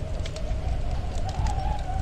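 Wood fire crackling with scattered sharp pops, over the low rumble of snowstorm wind that whistles in one wavering tone, rising slowly and sinking again.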